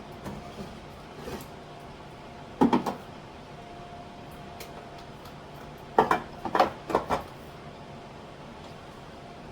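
A few knocks and clunks of jars and containers being handled and set down on a shelf or counter, one about three seconds in and a quick cluster of three or four around six to seven seconds, over a faint steady hum.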